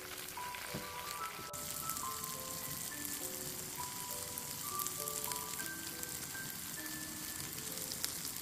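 Slices of tofu sizzling as they fry in hot oil in a pan, a steady crackling hiss throughout. Background music of short melody notes plays over it.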